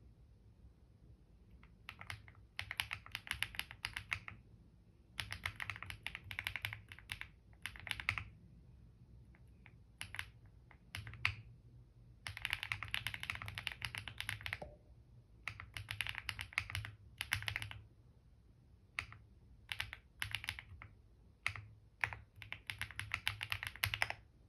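Computer keyboard typing: quick runs of key clicks lasting a second or two, broken by short pauses between them.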